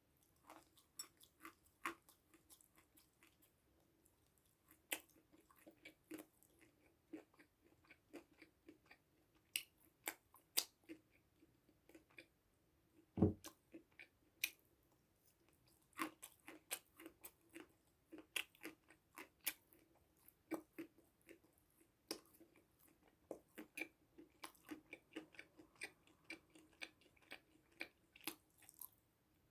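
Close-miked chewing and biting: many small sharp crunches and wet clicks at an irregular pace as food is eaten, with one louder knock about 13 seconds in.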